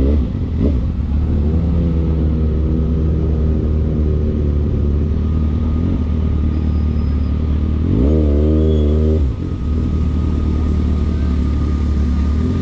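Vehicle engines running with a deep, steady rumble. About eight seconds in, one engine is revved for about a second, its pitch rising and wavering, then drops back.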